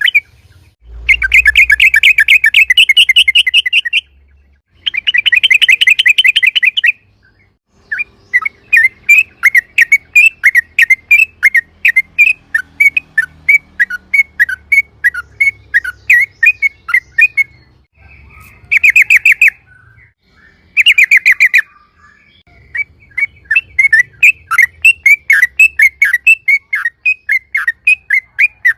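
Yellow-vented bulbul (trucukan) singing loudly: dense chattering trills of two to three seconds each, alternating with long runs of quick repeated notes at about four a second, and two short trills about two-thirds of the way through.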